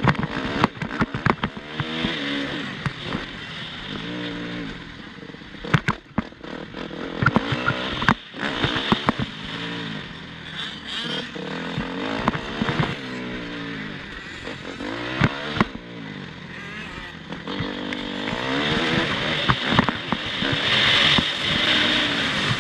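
Motocross bike engine revving hard and easing off again and again as it is ridden, its pitch climbing and dropping in waves, with frequent sharp knocks and clatters along the way.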